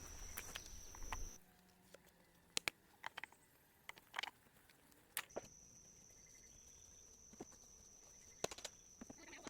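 Steady, faint high-pitched insect chorus, like crickets, which drops out about a second in and comes back about halfway through, with scattered light clicks and ticks.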